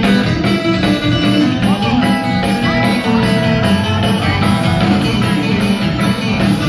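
Live heavy rock band playing loudly: electric guitars over bass and drums, with singing.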